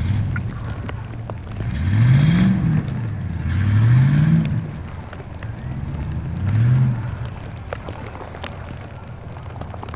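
A car engine revs up three times, each rev rising in pitch and then dropping back, then settles to a lower, steadier run.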